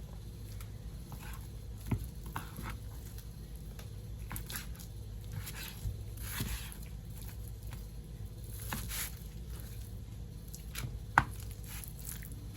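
Knife cutting raw boneless chicken breast into pieces on a cutting board: scattered soft cuts and knocks of the blade on the board. The sharpest knocks come about 2 s in and near the end.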